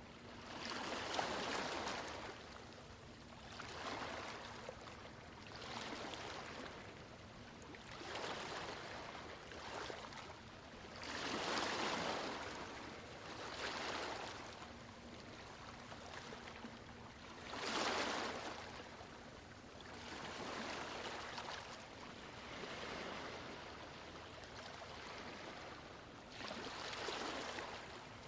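Sea waves washing in, one soft swell every two seconds or so, with two larger ones in the middle and later part. A faint steady low tone sits underneath.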